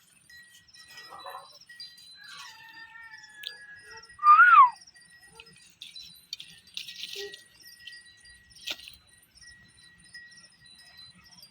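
A parrot gives one loud call about four seconds in that rises and then falls in pitch, among faint chirps and clicks. A thin steady high tone runs underneath.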